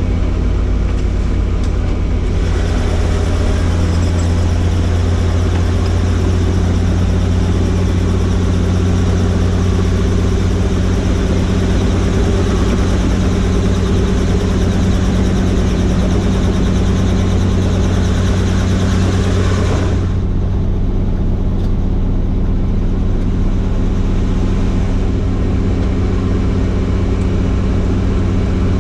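Helicopter running steadily in flight, its engine and rotor a constant loud low hum. A broad hiss of rushing air joins about two seconds in and cuts off suddenly about twenty seconds in.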